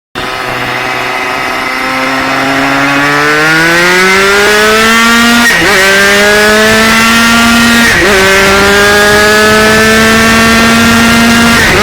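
Honda CR80 80cc two-stroke single, breathing through a hand-built exhaust, accelerating hard through the gears. The engine note climbs steadily and drops sharply at each upshift, three times: about five and a half seconds in, about eight seconds in and near the end.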